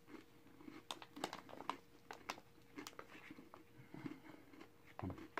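A person chewing a crunchy chocolate-covered pretzel with the mouth closed: faint, irregular crunching clicks.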